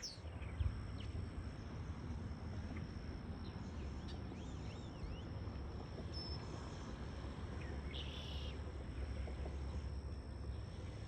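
Steady low outdoor rumble with a few faint bird chirps, a cluster about four seconds in and another about eight seconds in.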